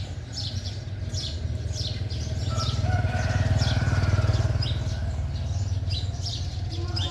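A low engine rumble from a passing motor vehicle swells about three to four seconds in and eases off again. Small birds chirp in short, repeated calls throughout.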